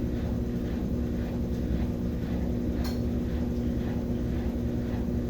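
Brastemp 17 kg washing machine in its spin cycle: a steady motor hum with one held tone, and a single sharp click about three seconds in.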